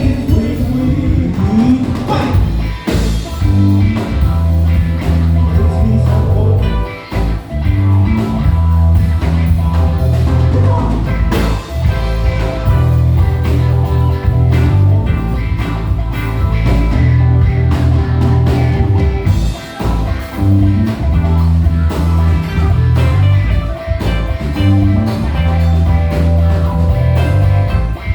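Live band playing: electric guitar over bass, drums and keys, a loud rock-blues groove.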